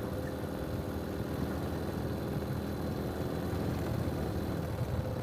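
Ural sidecar motorcycle's air-cooled flat-twin (boxer) engine running steadily at low speed.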